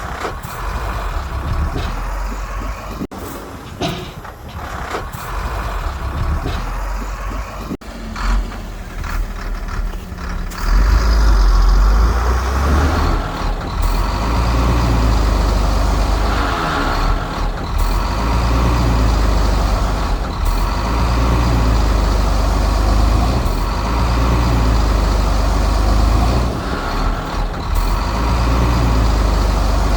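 Heavy diesel earthmoving equipment working: a deep engine rumble that gets louder about ten seconds in and then swells and eases every few seconds with the load.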